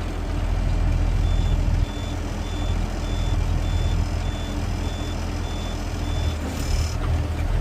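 Truck reversing alarm beeping at a steady high pitch, about two beeps a second for roughly five seconds, over the steady low rumble of the garbage truck's idling engine; a short hiss follows near the end.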